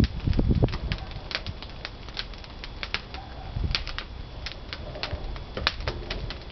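Pine firewood crackling and popping as it burns in a wood-fired kiln's firebox: many sharp, irregular pops over a steady hiss, with a low thump at the start and another a few seconds in.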